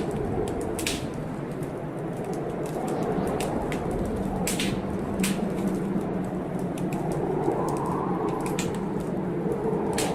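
Wood fire in a fireplace crackling with frequent sharp pops, over the steady low rush of a heavy blizzard wind.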